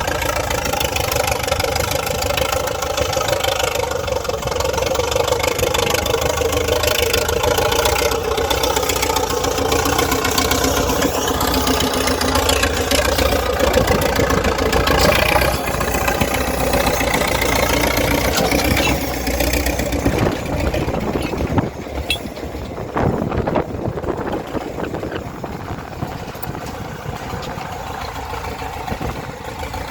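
DT-75 crawler tractor's diesel engine running, held at higher revs and then easing down to a lower, quieter idle about two-thirds of the way through, with a few sharp knocks as it drops.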